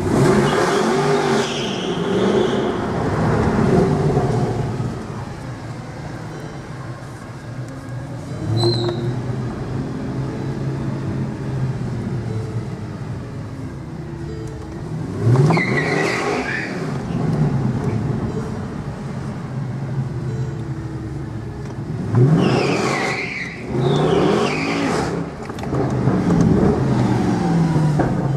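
Mercedes-Benz C63 AMG 507 Edition's 6.2-litre V8 heard from inside the car, accelerating hard in several bursts with the pitch rising and then dropping: about a second in, around the middle, and twice near the end. Between the bursts the engine runs more steadily.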